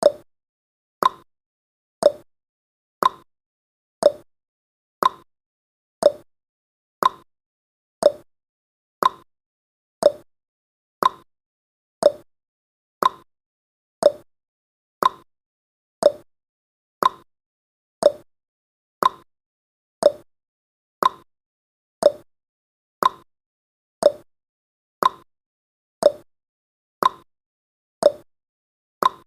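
Clock-style tick-tock of a countdown timer's sound effect: one sharp tick each second, alternating higher and lower in pitch.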